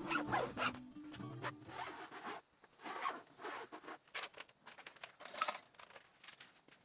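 A zipper pulled in a series of short, uneven strokes, over guitar music that fades out in the first two seconds.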